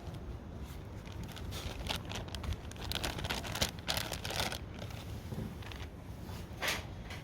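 Crinkling and rustling of something being handled, in irregular bursts, busiest in the middle and once more near the end.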